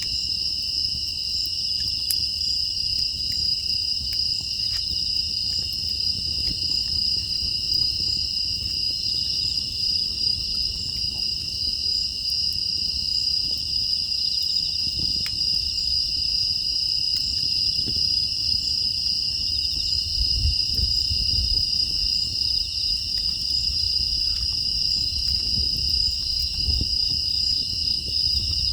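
A steady, continuous chorus of crickets and other grass insects chirring. Faint scattered ticks and a low rumble sit underneath.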